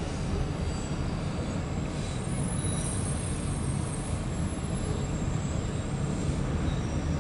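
Freight train cars (autoracks and intermodal container cars) rolling steadily past with a constant low rumble, and faint high-pitched wheel squeals coming and going, heard from inside a car.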